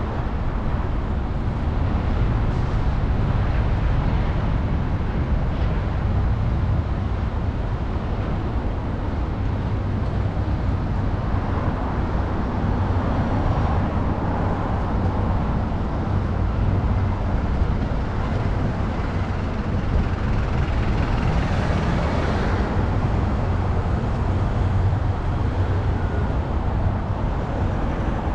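Steady city street and traffic noise heard from a moving bicycle, with a constant low rumble underneath. A louder hiss swells and fades about three-quarters of the way through, like a vehicle passing close.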